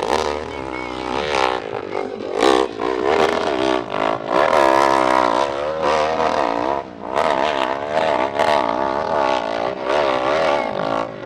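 Big-displacement open-class hillclimb motorcycle engine running hard, its pitch rising and falling over and over as the throttle is worked, with a few sharp clattering knocks.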